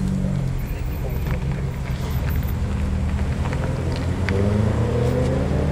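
BMW M-car turbocharged straight-six engines running at low revs while rolling slowly, the note rising a little near the end as the cars pick up speed.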